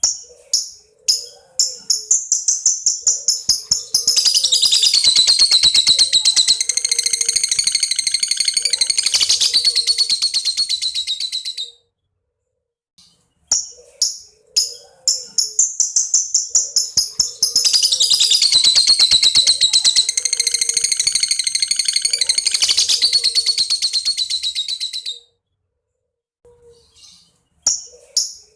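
Lovebird calling: a run of sharp high chirps that quickens into a long, rapid, high-pitched chattering trill (ngekek) lasting about eight seconds, then breaks off. The whole sequence repeats, and the chirps start again near the end.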